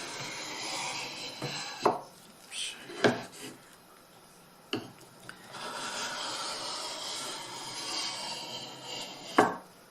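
Drawknife's bevel being honed back and forth on a wet sharpening stone: a steady gritty scraping in two stretches, with a few sharp knocks between them, about two, three and five seconds in and again near the end.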